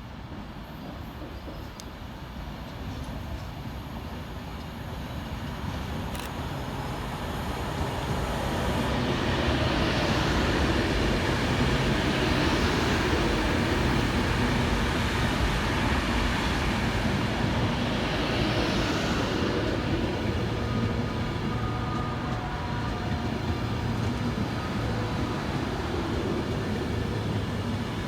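Class 390 Pendolino electric train arriving at a station platform: its running noise swells over several seconds, holds steady and loud with brief hissy surges as the coaches pass, then eases a little near the end as it slows.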